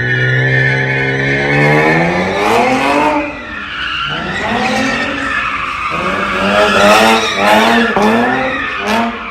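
Car engine revving hard, its pitch climbing over the first two seconds and then rising and falling about once a second, with tires squealing and skidding as the car does donuts.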